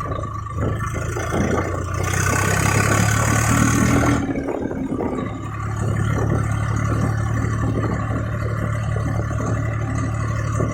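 Swaraj 855 FE tractor's three-cylinder diesel engine running steadily under way. A hiss rises over it from about two to four seconds in, then the engine sound briefly drops off before running steadily again.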